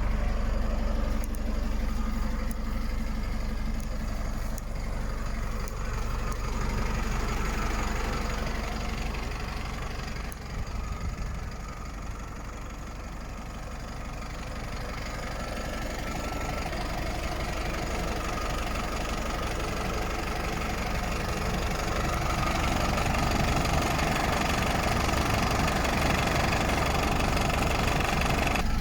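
DAF LF 45.180 truck's diesel engine running at idle, steady throughout, dipping a little in loudness around the middle and louder again in the second half.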